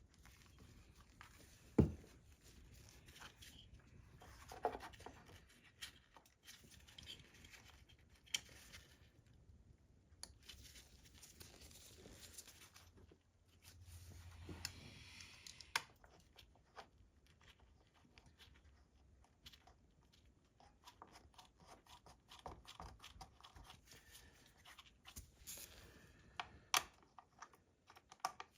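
Faint, scattered clicks, knocks and rustling of hands handling tools and parts, with one sharper knock about two seconds in.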